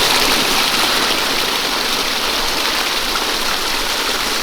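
Water falling and splashing steadily down a newly built pondless waterfall, an even rushing sound.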